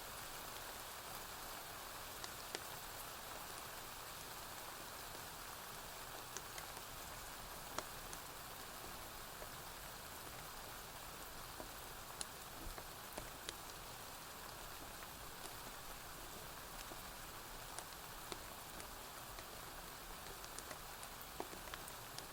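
Steady rain falling on a porch roof, an even hiss, with scattered sharp pops from a wood fire crackling now and then.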